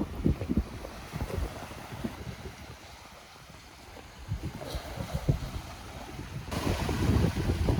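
Wind buffeting the microphone in gusts over the rush of sea surf. About six and a half seconds in, the rush suddenly gets louder and fuller.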